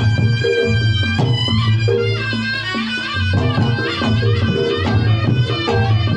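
Reog Ponorogo ensemble music: a slompret (Javanese shawm) plays a wavering, bending melody over a steady beat of kendang drum and gong-chimes.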